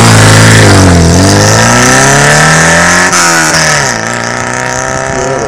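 Yugo Koral 55's 1.1-litre four-cylinder engine revved through an aftermarket Rapid Junior rear silencer: the revs drop, climb again to a peak about three seconds in, then fall back to a steady idle about four seconds in.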